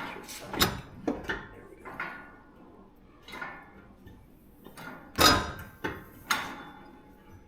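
Steel exhaust pipes clanking and rattling as they are handled and hung on their hangers: a string of sharp metallic knocks with a brief ring, the loudest about five seconds in.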